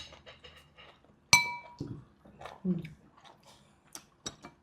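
Cutlery clinking against dishes during a meal: one sharp, ringing clink about a second and a half in, among a few lighter clicks and knocks.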